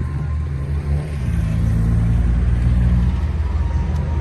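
Car engine running close by with a low rumble that swells louder about a second in, as if rising on the throttle.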